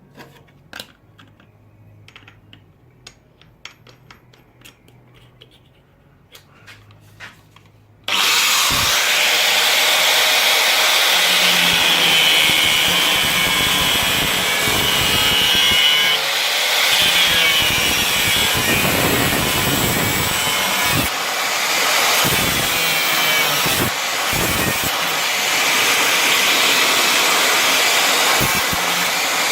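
Faint clicks and taps for about eight seconds, then a power cutting tool, most like an angle grinder, starts abruptly and cuts steadily into the car's steel bodywork.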